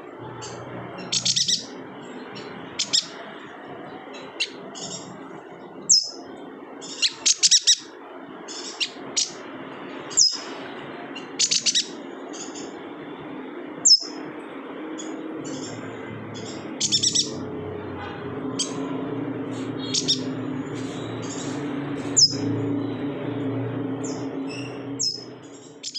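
Chestnut-crested yuhina (Kalimantan yuhina) calling: short, sharp, high chirps, some single and some in quick runs of two or three, every second or so. A steady low hum runs underneath and gets louder in the second half.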